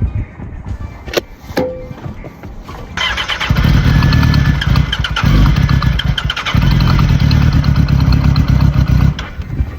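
Sport motorcycle being cranked over in three long goes, with two short breaks between them, after a few clicks.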